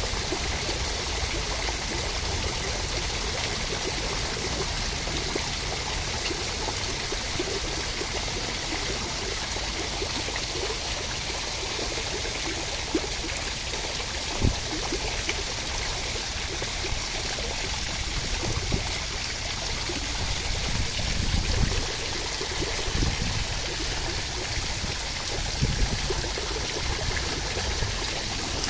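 Steady rushing water: an even, unbroken hiss of falling or running water, with a few soft low thumps in the second half.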